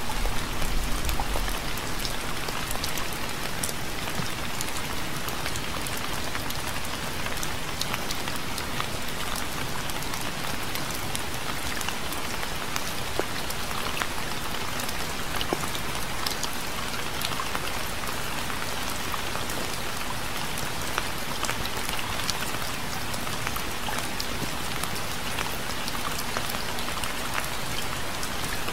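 Steady gentle rain: an even hiss with many scattered drop taps and drips. There is a brief low rumble at the very start.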